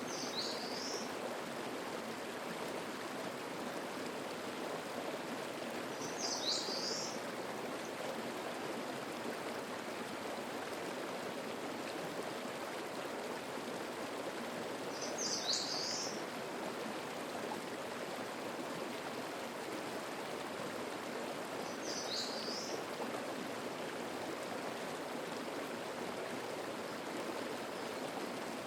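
Mountain stream flowing steadily. Over it a songbird sings the same short high phrase four times, several seconds apart.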